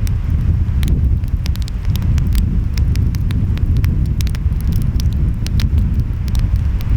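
Wood fire crackling, with frequent irregular sharp pops, over a steady low rumble of surf and wind.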